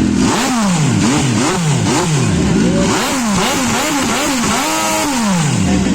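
Motorcycle engine being revved in quick, repeated throttle blips, its pitch rising and falling about twice a second, with one longer rev held higher near the end.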